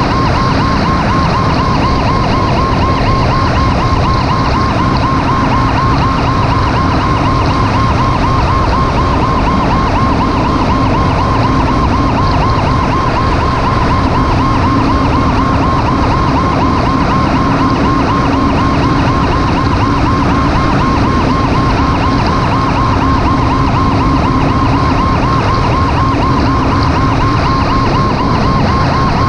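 Rescue vehicle siren sounding continuously in a fast, even warble over steady road and engine noise while the vehicle drives.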